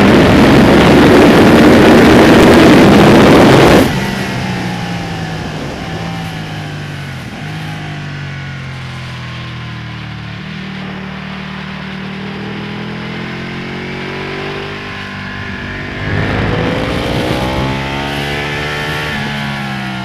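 Ducati Panigale V-twin sportbike engine heard from on board at full throttle with a loud rush, cut off suddenly about four seconds in as the throttle closes. The engine note then falls away through lower revs, runs steady for several seconds, and rises again in a hard acceleration after about sixteen seconds before easing near the end.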